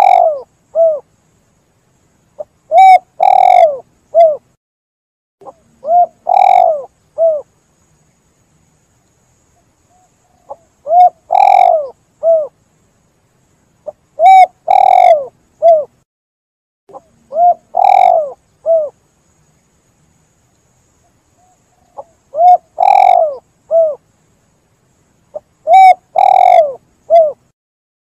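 Spotted dove cooing: short phrases of three or four low coos, repeated about every three to four seconds, with silent gaps between.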